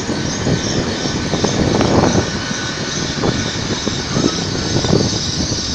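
GWR intercity passenger train passing close by. The wheels make a steady rumble and hiss on the rails, with repeated low thuds about once a second.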